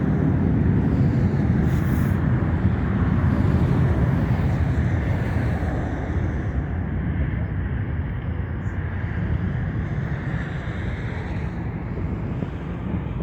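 Jet noise from an American Airlines Boeing 757 climbing away after takeoff: a steady low rumble that slowly fades.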